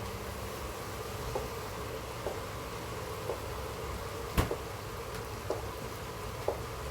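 Light clicks of a utensil against a cooking pot, about one a second, with one sharper knock about four seconds in, over a steady hum.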